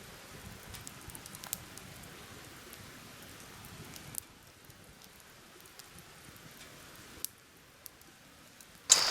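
Faint woodland ambience with a soft patter and scattered light ticks, like light rain or small crackles; the background changes abruptly twice. Music comes in loudly right at the end.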